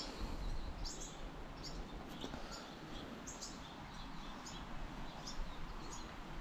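Birds chirping: short, high chirps repeating about twice a second over a steady background hiss.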